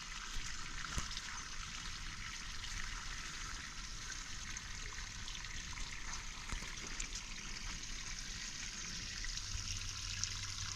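Water running steadily in a continuous trickle, with a few faint clicks.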